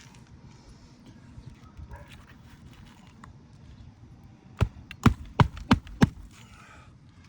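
Hammer driving a 1¼-inch roofing nail into an asphalt shingle: five quick sharp strikes about three a second, starting a little past halfway. The nail pulls through the brittle old shingle instead of seating flush.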